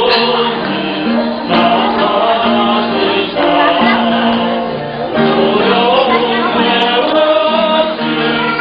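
Church praise song sung by mixed male and female voices, with long held notes moving from pitch to pitch.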